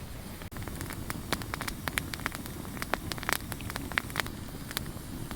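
Wood fire crackling, with irregular sharp pops over a low rumble.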